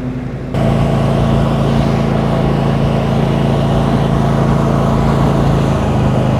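Husqvarna riding lawn tractor's newly installed engine running steadily at mowing speed with the PTO-driven cutting deck engaged, the test mow after an engine swap. It gets abruptly louder about half a second in and then holds an even note.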